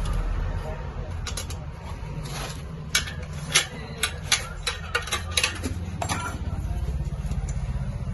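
Metal tools clinking and knocking on metal, as when a tyre is levered off its rim. About a dozen sharp, irregular strikes fall between one and six seconds in, over a steady low rumble.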